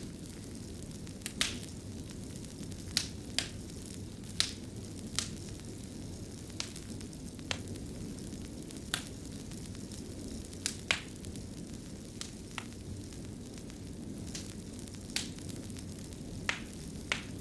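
Wood fire burning in a fireplace: a steady low rumble with irregular sharp crackles and pops, about one every second or two, a few coming in quick pairs.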